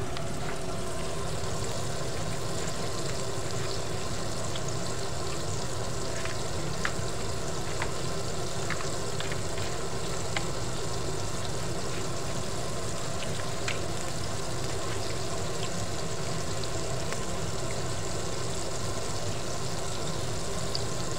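Flour-coated chicken wings deep-frying in hot oil in a pot: a steady sizzle with occasional sharp pops.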